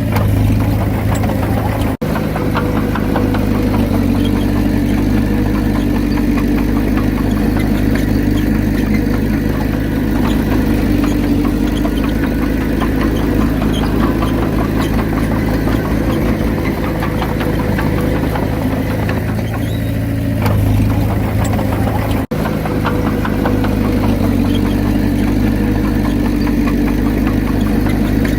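Diesel engine of a Komatsu D31P crawler bulldozer running steadily. The sound cuts out for an instant twice, about two seconds in and again about three-quarters of the way through.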